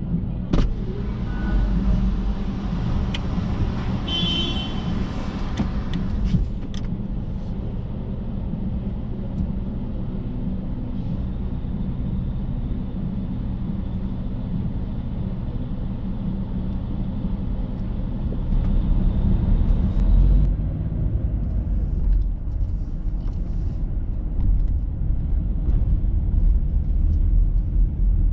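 Street traffic: a motor vehicle's engine running steadily, with a few clicks and a brief high squeal about four seconds in. The low rumble grows louder about two-thirds of the way through.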